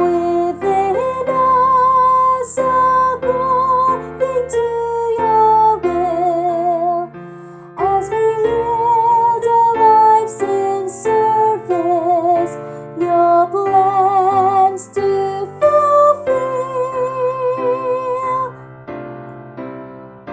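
Female soprano voice singing a sustained melody with vibrato over piano accompaniment.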